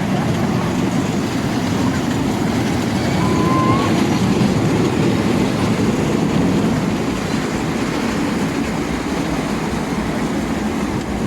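Train running with a steady, loud rumble of wheels on track, swelling a little partway through, with one short high squeak about three and a half seconds in.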